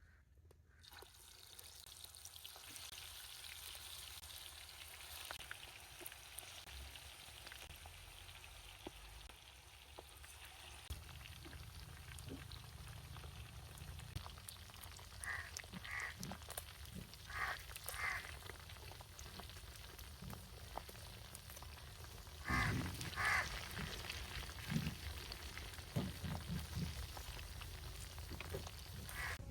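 Chicken wings sizzling as they cook over a wood fire, a steady frying hiss. About halfway through, short animal calls sound several times, mostly in pairs.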